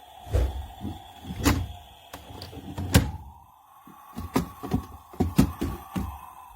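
Plastic toy fridge being handled: a string of knocks and clicks from its doors and parts, the loudest about three seconds in, over a steady thin hum that rises slightly in pitch about halfway through.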